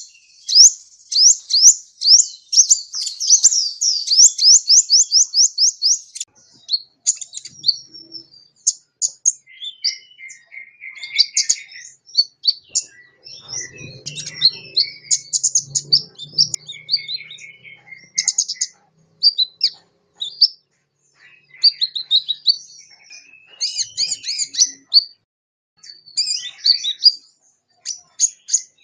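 Sunbird song: a fast, high trill of rapidly repeated notes for about six seconds, then a varied run of high chirps, twitters and short warbles with brief pauses.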